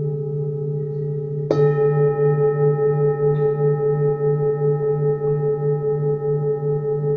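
Singing bowls ringing, a low hum under a higher tone. About one and a half seconds in, a bowl is struck and adds a brighter ring that wavers in a slow pulse as it sustains.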